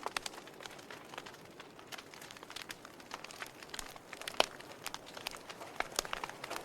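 Fire burning in a fireplace, crackling with irregular sharp pops and snaps over a soft hiss. One louder pop comes a little after four seconds in.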